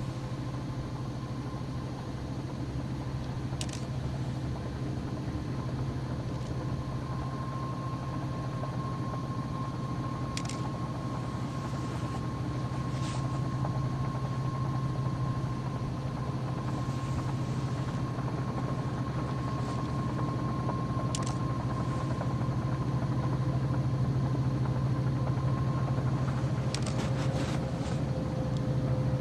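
Steady low engine drone that grows slowly louder, with a thin steady whine above it and a few faint clicks.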